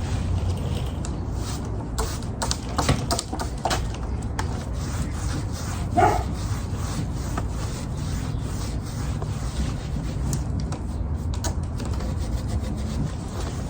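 Hand rubbing on rough wooden bench boards: a steady scratchy rub, with a few light knocks about two to four seconds in and a brief louder sound about six seconds in.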